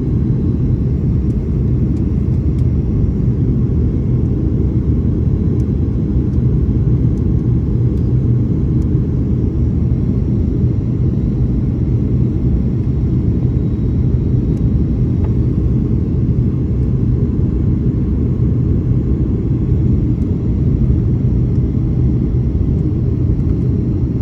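Steady low rumble inside a Boeing 737 passenger cabin: engine and airflow noise, unchanging throughout, with a faint high whine above it.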